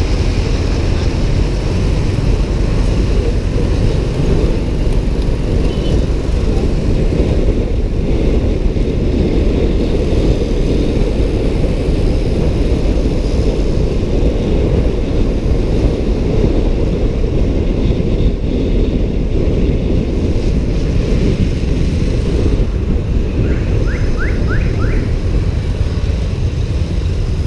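Steady low rush of riding noise from a moving motorbike in city traffic, without a clear engine pitch. A few quick high chirps come near the end.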